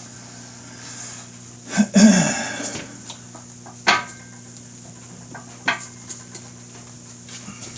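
Metal parts and tools clanking: a loud ringing metallic clatter about two seconds in, a sharp knock about four seconds in, then a few lighter clicks, over a steady low hum.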